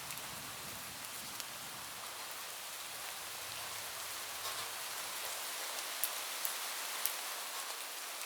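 Steady rain falling on a roof, with a few separate drops striking sharply and close about six to seven seconds in.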